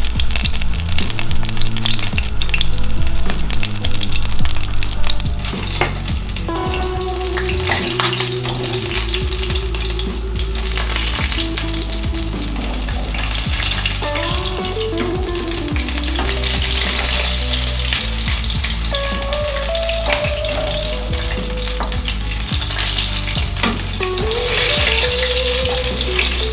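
Sabah fish frying in hot oil in a pan, a steady sizzle, louder for the first five seconds or so.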